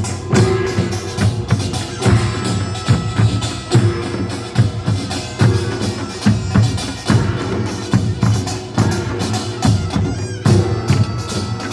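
Korean nongak percussion band playing at full tilt: kkwaenggwari small gongs clanging in fast strokes over janggu and buk drums, with heavy beats coming roughly every second.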